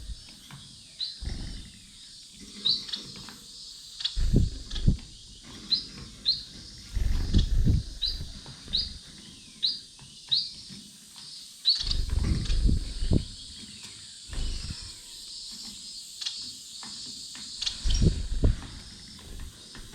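Small cage finches chirping, a steady run of short high calls that rise in pitch, interrupted every few seconds by loud low thumps and rustles from birds moving close by.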